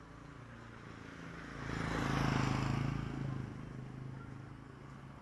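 A motor vehicle passing close by: its engine and road noise swell to a peak about two seconds in and fade away over the next two seconds.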